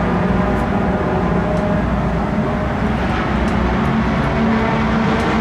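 Race car engines running steadily on the circuit, with one engine note rising slightly about four and a half seconds in.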